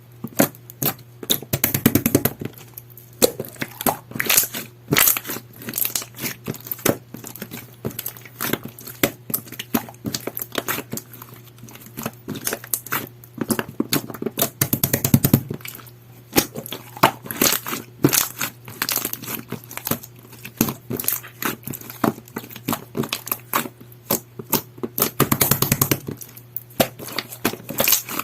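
Purple pearl slime with a jelly texture being squished, pressed and pulled by hand, giving an irregular run of sticky clicks, pops and crackles. Denser, louder squelching comes about two seconds in, around the middle, and near the end.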